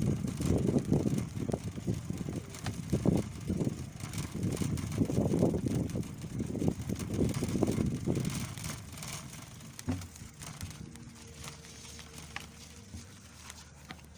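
Riding a bicycle: irregular rumble and buffeting, like wind on the microphone and road noise. It is strong for the first eight seconds or so, then fades steadily to a low level.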